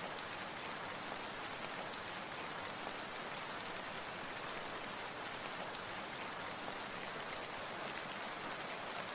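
Steady, even hiss of falling or running water, unchanging throughout.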